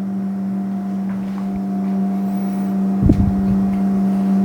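A steady low machine hum, with a brief soft thump about three seconds in.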